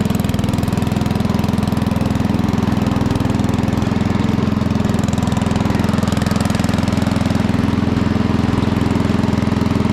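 A small engine running steadily at one speed, with an even, fast throb and no change in pitch.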